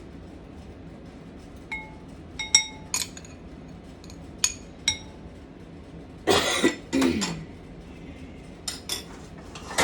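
Utensils clinking against glass dishes and bowls: several short ringing clinks, then a longer scrape about six seconds in, and a few more clinks near the end.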